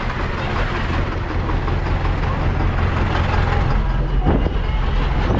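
Heavy diesel farm-vehicle engine running steadily, with a low drone and a rumbling mechanical noise.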